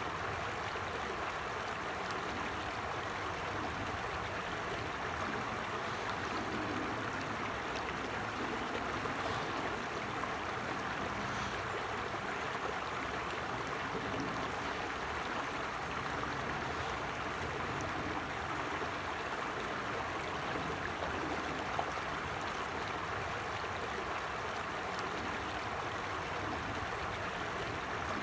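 A forest creek flowing over rocks, a steady even rushing and babbling of water.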